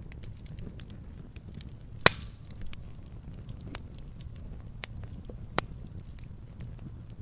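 Campfire burning: a low steady rumble of the flames with scattered sharp crackles and pops. The loudest pop comes about two seconds in and another strong one a little past five seconds.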